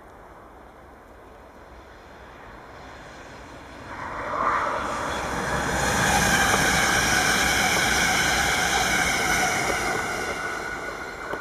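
NS Sprinter Lighttrain electric multiple unit passing at speed: its rumble and rush grow from about four seconds in, hold loudest for several seconds, and begin to fade near the end, with a steady electric whine on top.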